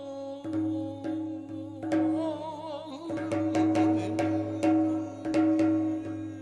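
Korean ritual music: janggu hourglass-drum strokes over steady sustained accompanying tones, with a wavering melodic line about two seconds in.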